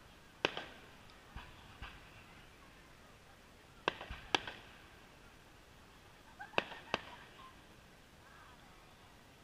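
Distant fireworks going off: sharp cracks, mostly in pairs about half a second apart, roughly every two to three seconds, with a couple of fainter cracks early on.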